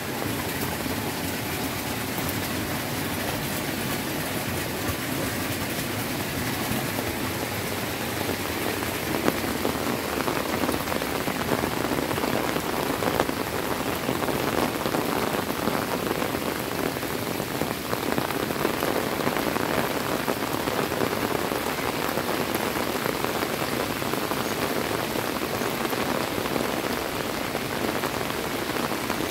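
Heavy rain falling steadily, splashing on puddles and wet ground.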